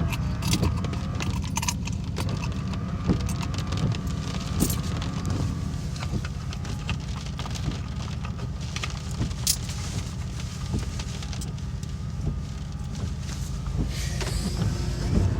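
Steady low rumble of a car heard from inside the cabin, with scattered sharp clicks and taps over it.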